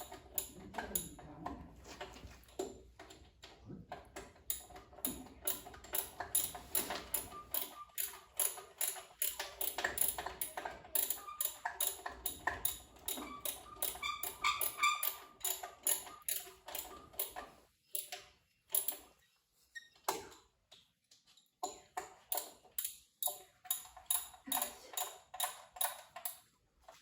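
Hand tools working on metal: a long run of sharp, rapid ratchet-like clicks in spells, with short pauses between them.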